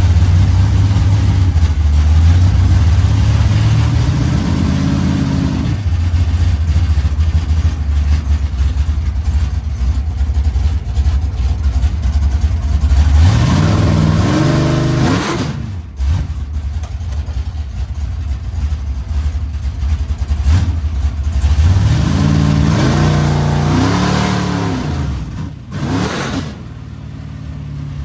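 Mustang drag car's engine idling, with a short blip about five seconds in, then revved up and let fall twice, once around halfway and again near the end, followed by a last quick blip.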